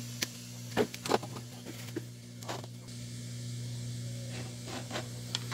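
Scattered light clicks and taps from small parts and a circuit board being handled on a workbench, several in the first three seconds, over a steady low electrical hum.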